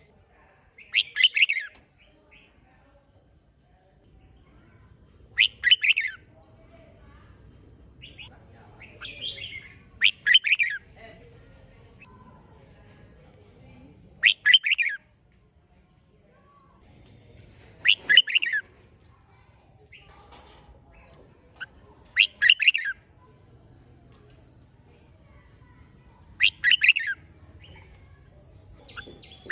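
Red-whiskered bulbul singing, short bright song phrases repeated about every four seconds, with faint short high chirps between them.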